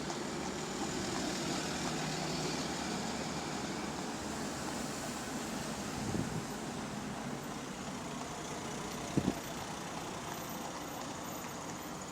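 Volvo B9TL double-decker bus engine running steadily at low revs, heard from inside the bus, with a brief knock about nine seconds in.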